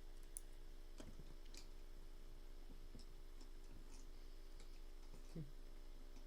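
Faint, irregular small clicks and light taps, about eight spread over several seconds, over a steady low electrical hum.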